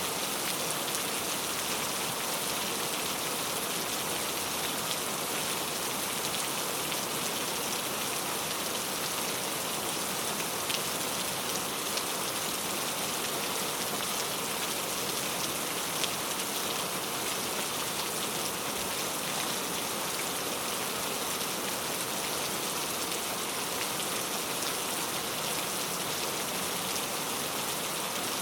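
Steady rain falling, an even hiss with occasional sharper drops striking a surface.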